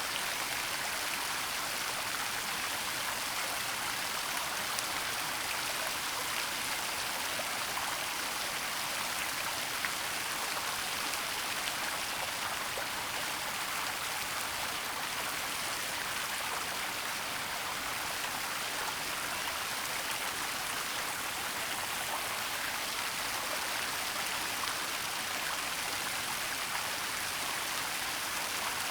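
Waterfall in a forest: steady rushing of falling water, an even hiss with no change.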